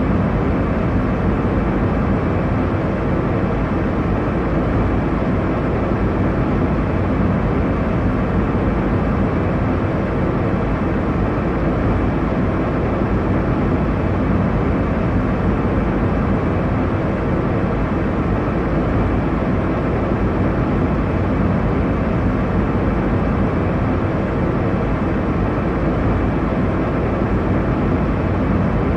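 Airliner cabin noise: a steady, unchanging low rush of engine and airflow noise inside the cabin of a jet in flight.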